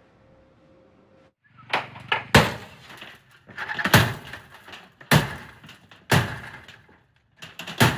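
A series of loud, sudden bangs and clattering, about one a second from roughly two seconds in, each dying away quickly, after a faint steady hum.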